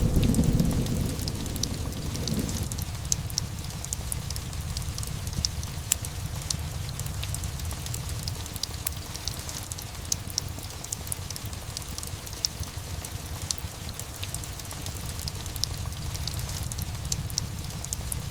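Steady rain with the tail of a low thunder rumble fading away over the first couple of seconds, and a fireplace crackling with scattered sharp pops.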